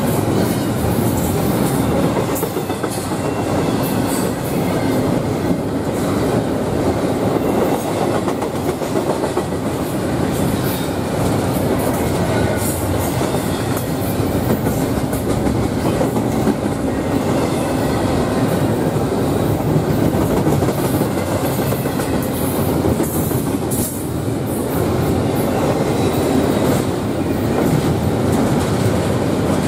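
Double-stack intermodal freight train cars rolling past at close range: a steady rumble of steel wheels on the rails with a clatter of wheels over the rail joints.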